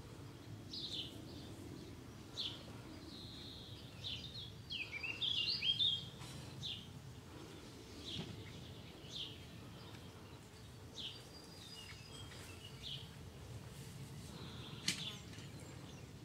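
Birds chirping in short high calls every second or so, with a busier run of song about five seconds in, over a low steady background rumble. A single sharp click near the end.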